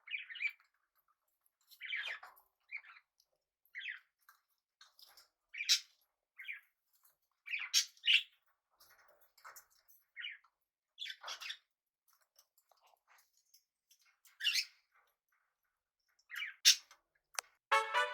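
Pet budgies and cockatiels giving short chirps and squawks, a call every second or so with silent gaps between.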